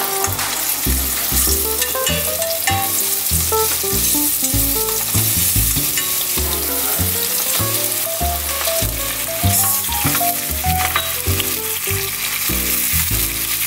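Garlic, ginger and minced chili sizzling in hot oil in a wok while being stirred with a wooden spatula, over background music with a melody that runs up and down and a steady bass line.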